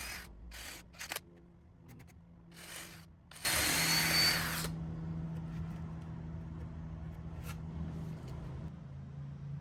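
Power drill driving screws into wood planks: a few short trigger bursts, then one loud run about three and a half seconds in, followed by a steady motor tone that drops in pitch near the end.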